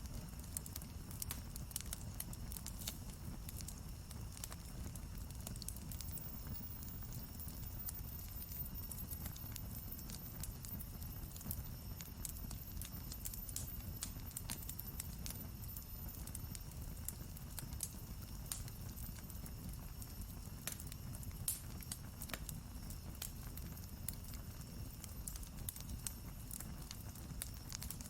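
Wood campfire crackling: irregular sharp pops and snaps of burning wood over a steady low rumble.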